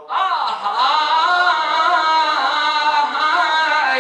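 A man chanting one long, wavering melodic line of a Shia elegy for the dead, unaccompanied, with no clear words in it.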